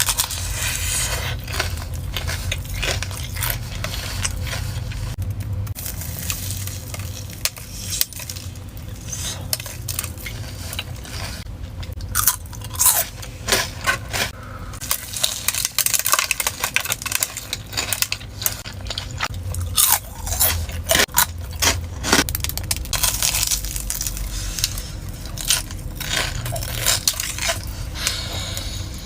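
Close-up eating sounds: repeated sharp crunches of biting into a fried, battered corn dog, with chewing between bites, over a low steady hum.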